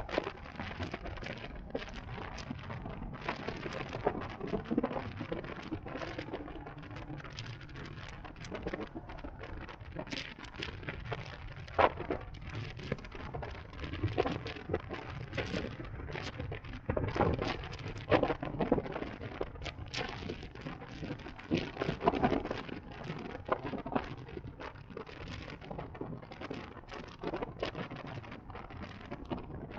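Wind rushing and buffeting over the microphone on a moving CSC Zongshen RX1e electric motorcycle, with a low rumble and irregular sharp crackles and pops; the electric motor itself is not heard above it.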